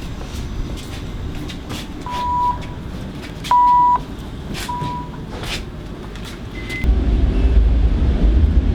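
City street traffic: a run of short, clean electronic beeps, the middle one the longest and loudest, over scattered clicks and clacks. About seven seconds in, a heavy low rumble sets in, as from a passing vehicle or wind on the microphone.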